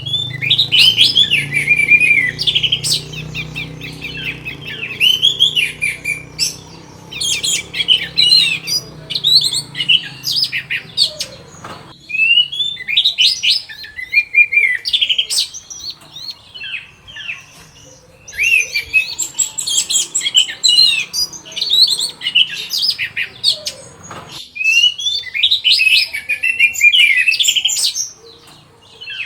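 Orange-headed thrush singing: long, varied phrases of rapid whistled and chirping notes that glide up and down, coming in several bursts with short pauses between them.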